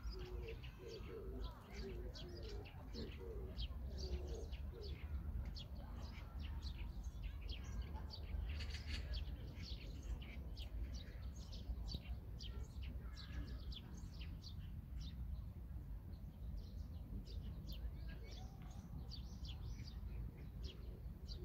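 Small birds chirping, many short high chirps coming one after another throughout, over a low steady outdoor rumble.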